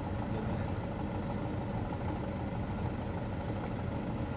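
Truck engine idling steadily, an even low rumble with no revving.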